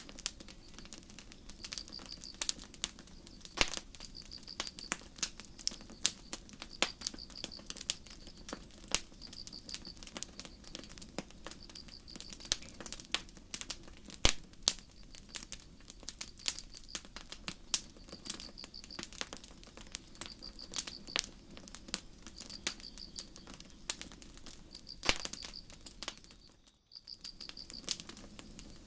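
Campfire crackling with irregular sharp pops, and crickets chirping, a short pulsed high chirp about every second. The sound cuts out for a moment near the end.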